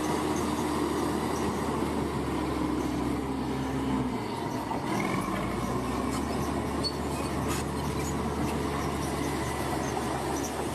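Heavy construction machinery running: a steady engine drone with higher steady tones above it, the low end dipping briefly about four seconds in.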